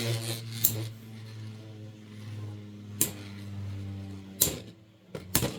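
Two Beyblade X spinning tops whirring in a plastic stadium, a steady hum. Four sharp clacks come as they strike each other.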